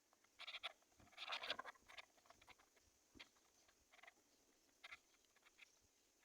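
Faint scratchy rustling and clicking in short bursts, loudest about a second in, with smaller scrapes a few times after.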